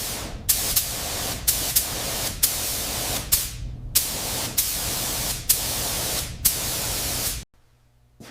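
Spray gun hissing steadily in repeated passes, with a sharp surge each time the trigger is pulled, about a dozen in all; it cuts off sharply near the end.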